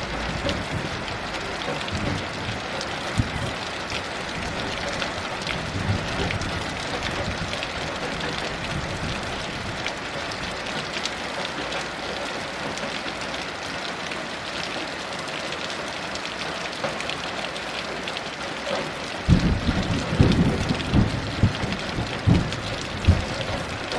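Heavy rain falling steadily with a dense, even hiss. About nineteen seconds in, low rumbling thunder rolls in and surges irregularly.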